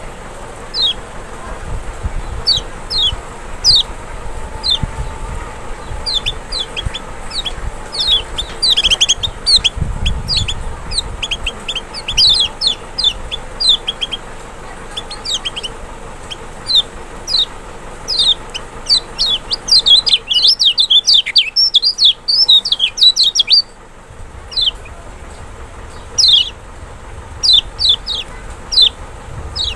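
Lemon-bellied white-eye (kecial, Zosterops chloris) singing: a long series of short, high, downward-slurred chirps that crowd into a rapid run through the middle and thin out toward the end. This is a trigger song played to provoke a caged kecial into singing.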